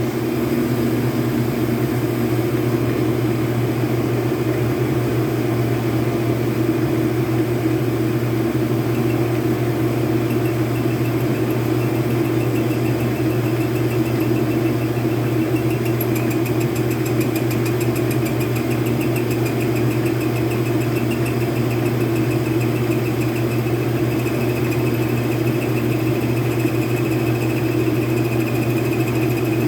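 Metal lathe running steadily with the shell mill chucked up, a machining pass under way; a faint high whine joins in about ten seconds in and holds.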